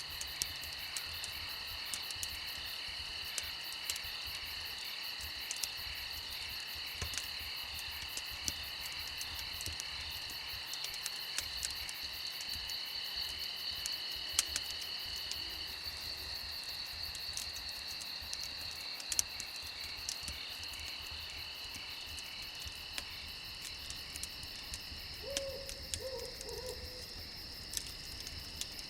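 A steady chorus of crickets trilling, overlaid by scattered sharp pops and crackles of a campfire. Near the end a short low animal call sounds a few times, like a hoot.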